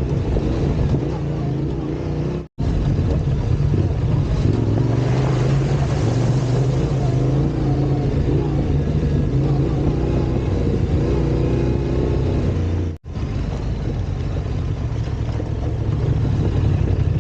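Off-road motorcycle engine running as it is ridden along a trail, its pitch wavering up and down with the throttle. The sound cuts out completely for an instant twice, about two and a half and thirteen seconds in.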